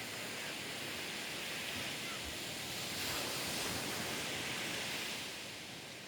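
Ocean surf breaking and washing up the beach: a steady rush of noise that swells about halfway through and eases near the end.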